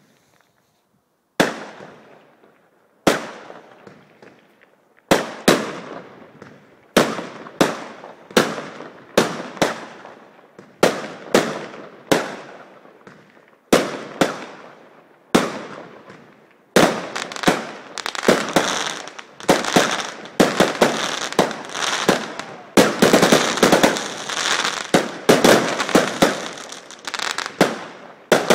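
Aerial fireworks going off as a series of sharp bangs, one every second or two, each trailing off in a fading crackle. From about halfway the shots come faster and merge into dense, continuous crackling.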